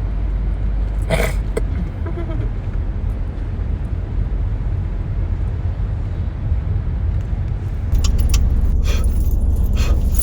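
Car running, a steady low engine and road rumble that gets louder about eight seconds in, with a few clicks.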